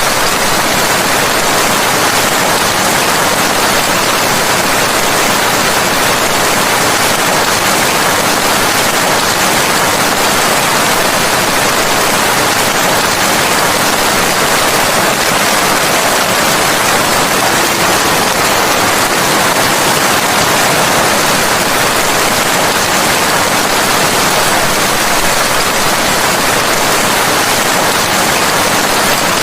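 Steady, loud rain: an even hiss of falling rain with no single drops or thunder standing out.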